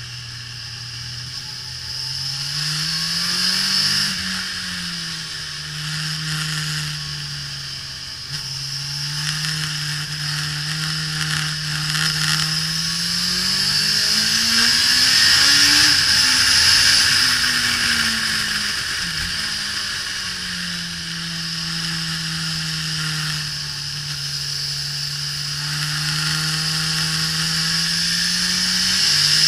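2005 Suzuki GSX-R1000 (K5) inline-four engine at track speed, its note rising under acceleration and dropping off as the throttle closes for corners, several times over. A steady rush of wind over the camera runs underneath.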